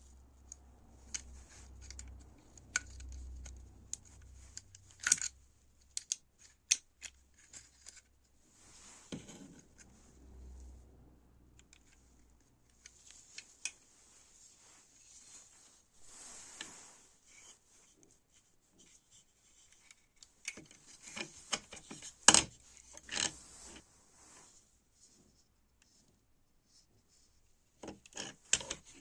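Irregular clicks, snips and scraping from hand work with small tools on small parts, with a sharp louder snap about three quarters of the way through.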